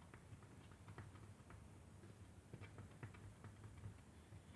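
Near silence: a low steady hum with faint, irregular light clicks and ticks scattered throughout.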